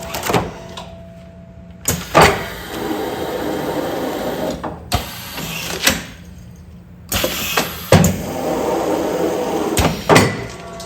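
Commercial container sealing machine running its automatic sealing cycle twice. Each cycle opens with a sharp knock, goes into a couple of seconds of mechanical noise and ends with another knock, over a steady low hum.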